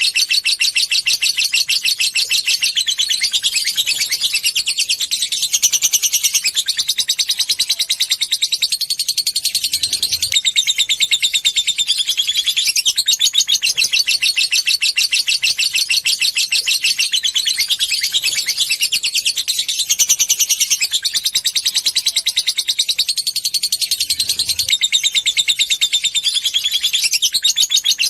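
Lovebird chattering without pause, a dense run of very fast, high-pitched ticking notes (the 'ngetik' chatter prized in lovebird training), with the same phrase pattern coming round again every several seconds.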